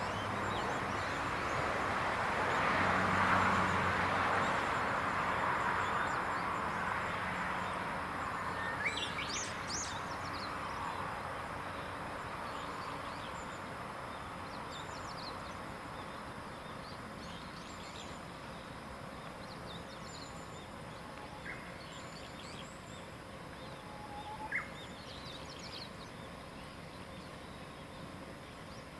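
Scattered short, high bird calls and chirps over a broad rushing background noise with a low hum, which is loudest in the first several seconds and then slowly fades away.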